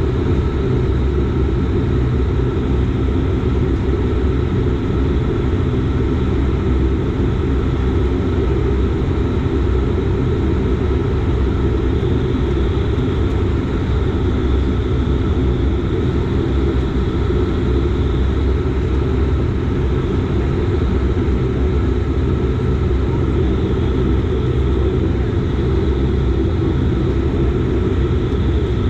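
Dash 8 Q400 turboprop engines and propellers droning steadily, several low tones held even over a strong low rumble.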